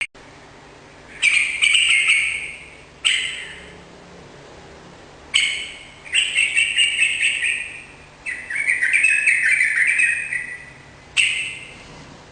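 Yellow-vented bulbul (trucukan) singing in full song: six bursts of quick, chattering phrases with short pauses between them.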